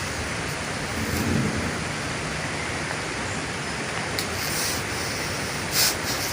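Heavy rain falling, a steady hiss, with a brief low rumble about a second in and a short sharp rustle near the end.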